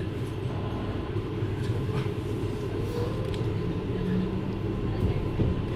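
JR Hokkaido 733 series electric multiple unit running at speed, heard from inside the passenger car: a steady rumble of wheels on rail with a faint steady tone and a few light clicks.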